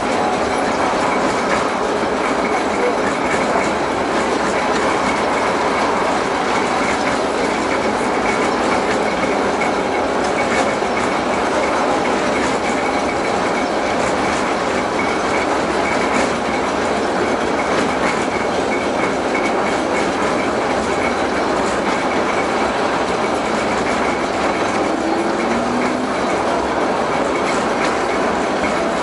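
LM-68M tram running steadily along the track, a continuous rumble and clatter of its wheels on the rails with a faint high steady whine.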